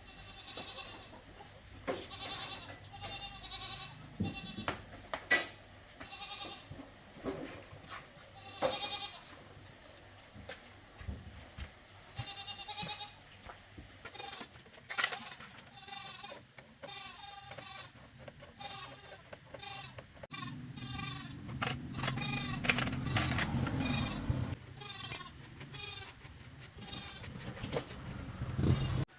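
Goats bleating again and again, short wavering calls, with scattered sharp clicks and knocks. A low rumble rises about two-thirds of the way through and fades a few seconds later.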